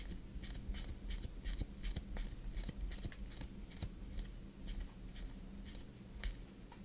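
Sports trading cards being handled and sorted by hand: a run of soft, short swishes and flicks of card stock, a few a second.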